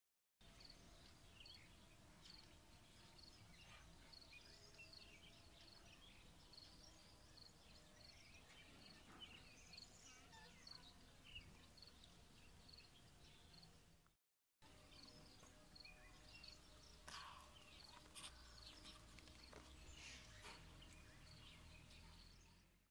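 Faint outdoor ambience with birds chirping, one repeating a short high note at an even pace. The sound drops out completely for a moment about two-thirds of the way through.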